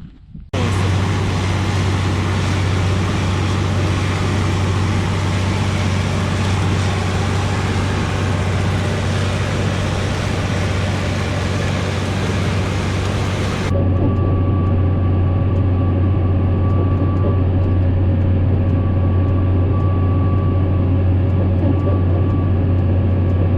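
Tractor engine running steadily under load, a loud low drone that starts abruptly. About two-thirds of the way through it changes suddenly to a duller sound with a thin steady whine.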